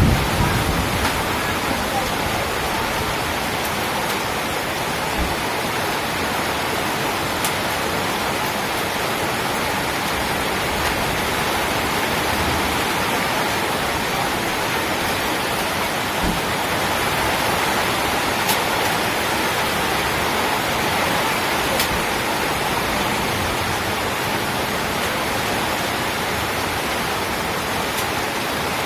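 Heavy rain pouring down in a steady, even hiss, with a few sharp ticks now and then.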